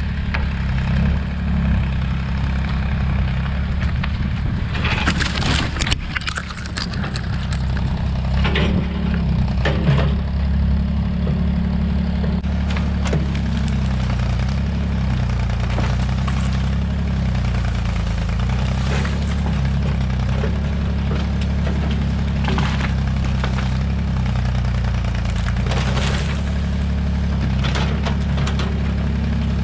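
Old Massey Ferguson tractor-backhoe engine running steadily under load, its note wavering a little as the machine works. Several short sharp cracks stand out over it, wood snapping as small trees are pushed over.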